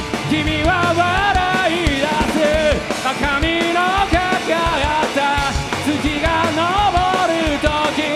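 Rock band playing live in a loud punk-rock style: steady drum hits under distorted guitars and bass, with a wavering melody line over them.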